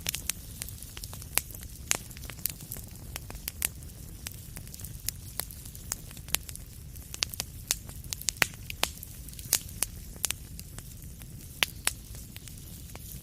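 Wood fire crackling: irregular sharp pops and snaps, several a second and some louder than others, over a steady low rumble and hiss.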